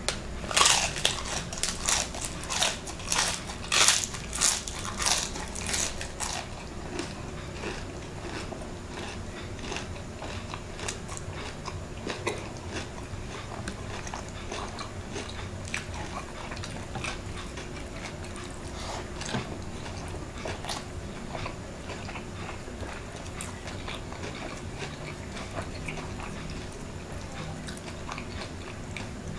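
Crispy deep-fried chicken skin being bitten and chewed: loud, dense crunching for the first six seconds or so, then softer, scattered crunches as the chewing goes on.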